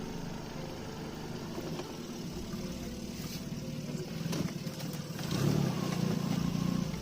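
Small fishing boat's engine running steadily, getting louder about five seconds in.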